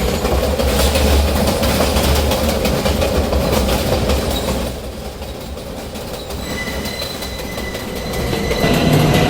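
New York City Z subway train running, heard from inside the car: a steady rumble with wheel clatter on the rails. About five seconds in, the noise eases and a thin, steady high whine comes in as the train slows toward the next station.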